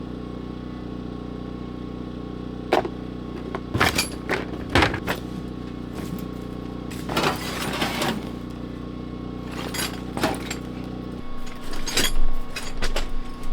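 A motor runs with a steady hum and cuts off sharply about eleven seconds in, with scattered knocks and clatter of work over it.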